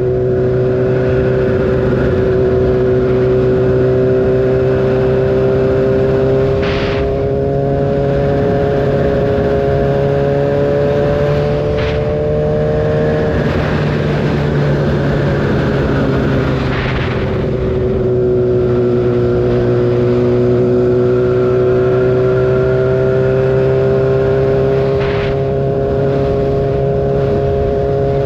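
Kawasaki ZX-6R's inline-four engine running at steady highway speed, its pitch creeping slowly upward. About halfway through, the revs drop for a few seconds before it settles back into steady running.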